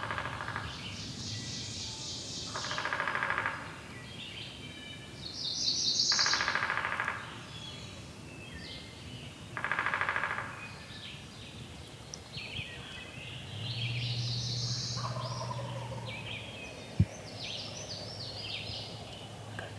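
Wild turkey gobbler gobbling three times, at about three, six and ten seconds, each a rattling call about a second long, with songbirds chirping in between. A low hum runs briefly past the middle, and a single sharp tap comes near the end.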